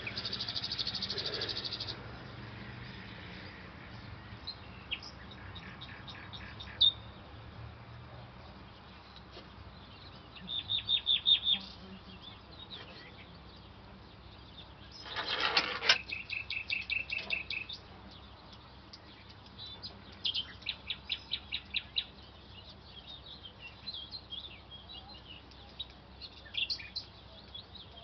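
Small birds chirping and singing, with several bouts of rapid, high repeated notes, the loudest a little past halfway through.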